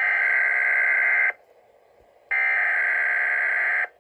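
Weather radio SAME digital alert header: two harsh buzzing data bursts of about a second and a half each, a second apart, sent ahead of a severe thunderstorm watch message.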